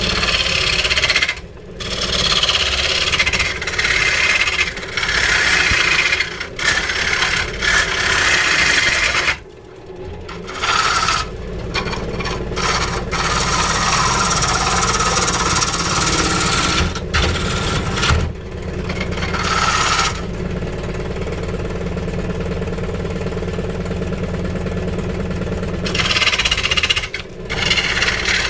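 Power woodworking tool cutting into weeping-willow wood, with a harsh rasping noise that stops and restarts several times. For several seconds near the end the machine runs steadily without cutting.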